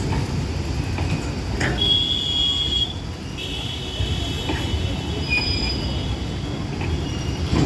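Train rolling past with a steady low rumble. High-pitched metallic squealing comes in about two seconds in for about a second, then again for about two seconds near the middle.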